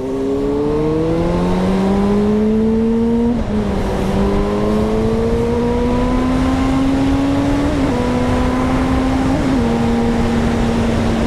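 Suzuki GSR 600 inline-four engine accelerating through the gears: its pitch climbs, drops sharply at an upshift about three seconds in, climbs again, dips briefly twice more and then holds steady. Heavy wind noise lies under it.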